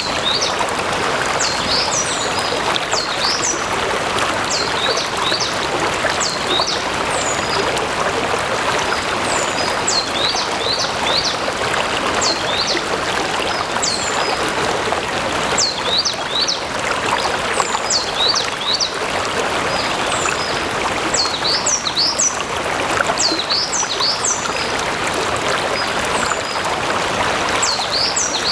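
Flowing stream water, a steady rush and babble, with many short high-pitched chirps scattered over it.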